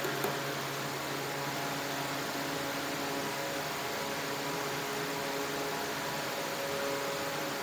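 A motor running steadily: an even hiss with a steady hum made of several tones.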